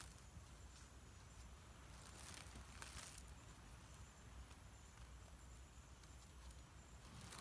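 Near silence: faint outdoor background with a low rumble and a few soft rustles or taps, clearest about two to three seconds in.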